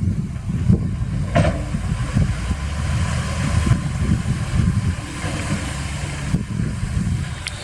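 Heavy earthmoving machinery's diesel engine running with a steady low rumble, and a single metallic clank about a second and a half in.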